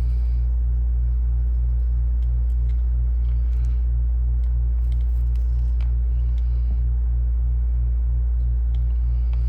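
Steady low hum with a faint throb about three times a second, and a few light clicks and taps over it.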